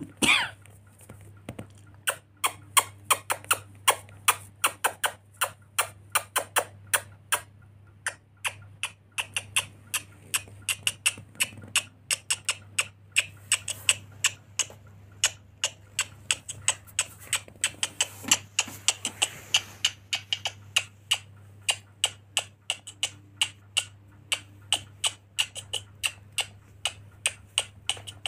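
A brief falling squeak at the very start, then a long, uneven series of sharp clicks or taps, roughly three a second.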